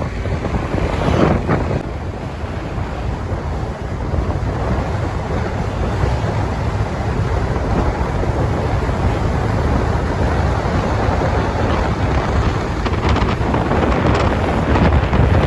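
Steady wind buffeting the microphone on a moving motorcycle, a loud even rush strongest in the low end.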